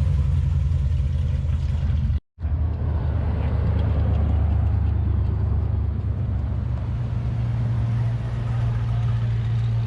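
Classic muscle car engine running with a steady deep rumble, the sound briefly cutting out about two seconds in.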